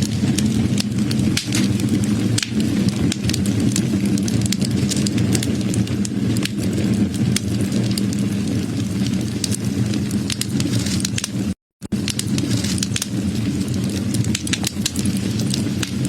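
Wood fire burning: a steady low rush of flames with many sharp crackles and pops from the burning wood. The sound cuts out completely for a split second about two-thirds of the way through.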